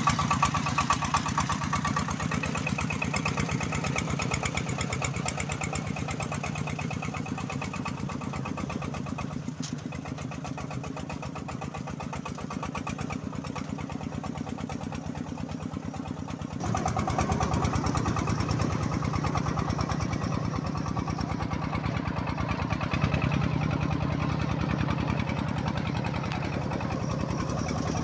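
Công nông farm truck's single-cylinder diesel engine running with a fast, steady chug. It eases off a little in the middle, then gets louder about two-thirds of the way through as it is given more throttle.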